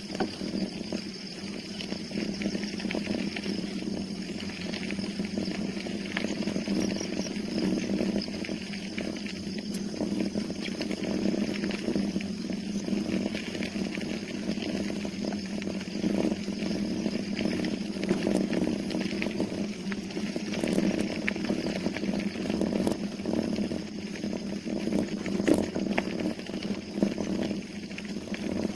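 Steady buzzing noise of a bicycle being ridden, with no breaks.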